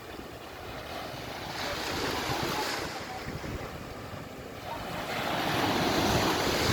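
Sea waves washing in on a beach, swelling twice, with wind buffeting the microphone.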